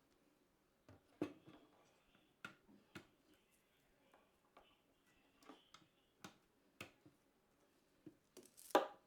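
Hands handling PC components during assembly: a scattering of light clicks and taps, with a louder clatter near the end.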